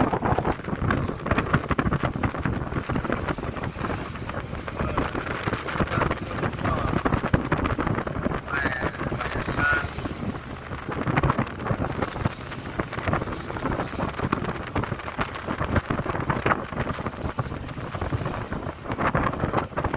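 Wind buffeting the microphone on the deck of a ship under way, over the rush of sea water along the hull, in uneven gusts.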